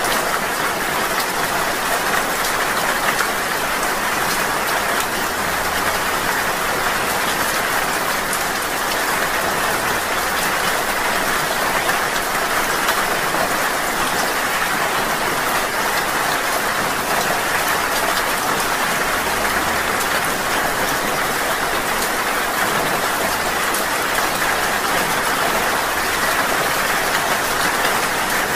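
Steady rain falling: an even, unbroken hiss with many fine drop taps through it.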